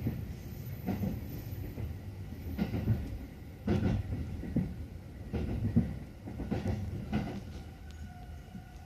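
Electric trains running side by side on parallel tracks: a steady low rumble with irregular clicks of wheels over rail joints. A faint steady whine comes in near the end.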